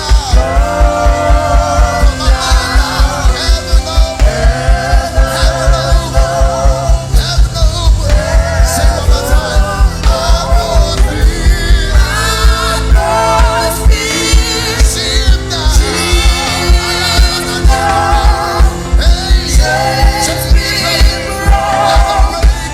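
Live gospel worship music: a singing voice over a band, with a fast, steady bass-drum beat of about four beats a second.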